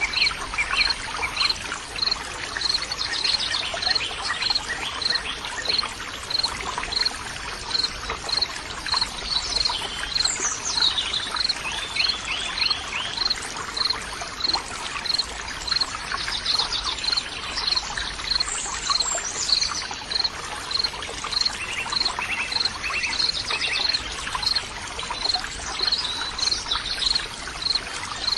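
Running water trickling and pouring steadily, with birds calling over it and a short high chirp repeating about twice a second.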